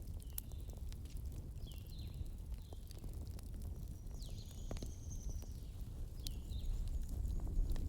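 Wood fire in a fireplace burning with a steady low rumble and scattered sharp crackles and pops. Several short high chirps and, about four seconds in, a longer high whistle sound over it.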